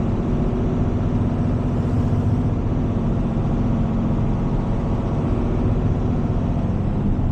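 Heavy tow truck's diesel engine running steadily with a low, even drone while the truck moves slowly in traffic.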